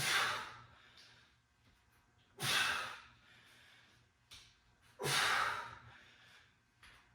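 A person's hard, forceful exhalations during exercise repetitions, three in all, about two and a half seconds apart, each a loud rush of breath that fades over about a second.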